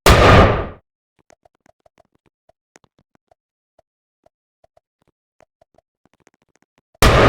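Two loud bangs, one at the start and one near the end, each dying away in under a second, with faint scattered ticks in between.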